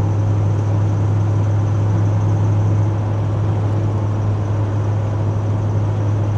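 1983 Chevy C10 pickup driving at a steady speed, heard from inside the cab: a constant low engine and exhaust drone over road noise, with no revving.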